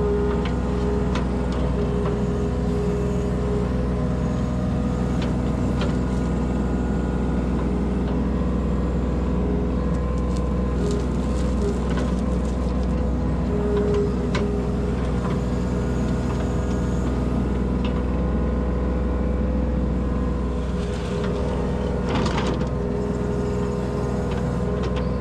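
Kubota U27-4 mini excavator's diesel engine running steadily under work, with a few short knocks and clanks from the bucket and machine.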